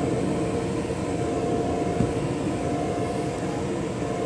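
A steady machine drone with a constant hum tone, unchanging throughout, and a faint tick about two seconds in.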